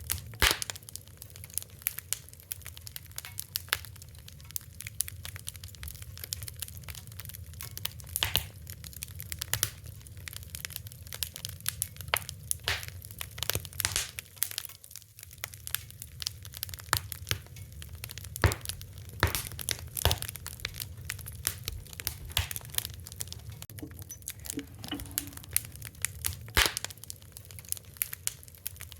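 Wood fire crackling, with sharp irregular pops and snaps over a low steady rumble of burning.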